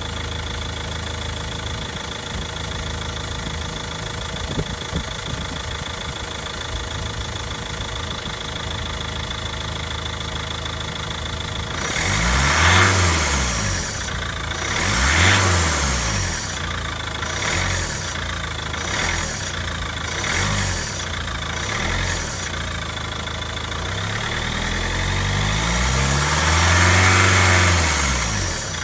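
Ford Mondeo 2.0 TDCi four-cylinder diesel idling steadily. It is then blipped several times and held at a longer rev near the end, with a hiss that swells and falls with each rev. The owner hears the hiss on acceleration, overrun and lift-off but not under steady load, and cannot identify it; the belts whir alongside.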